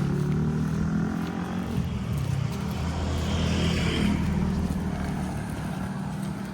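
A motor vehicle's engine running close by, with a steady low drone that fades away toward the end as the vehicle moves off.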